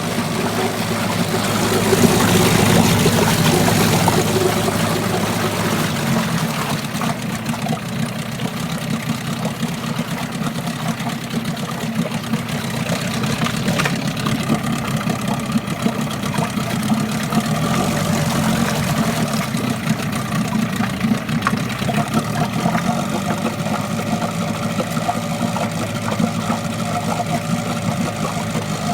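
Tohatsu 9.8 hp two-stroke outboard motor running. It revs up briefly about two seconds in, then settles back to a steady idle.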